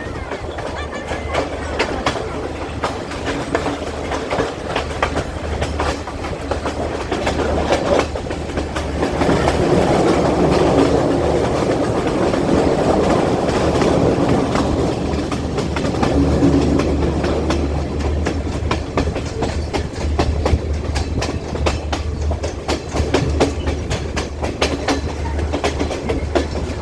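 Passenger train running on the line, its wheels clicking steadily over the rail joints under a constant low rumble. The rumble swells louder for several seconds around the middle, then eases back.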